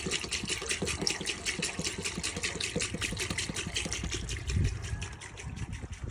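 Diesel being poured into an old tractor's fuel tank, gurgling with quick glugs as it fills, with a low thump a little past halfway; the pouring dies away near the end.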